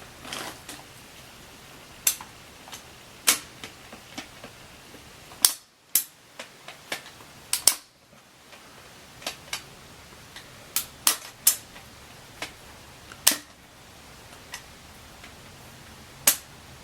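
Sharp, irregular metallic clicks from the gear shift shaft and selector of an open 164FML motorcycle engine being worked by hand, clicking through the gear positions while hunting for neutral.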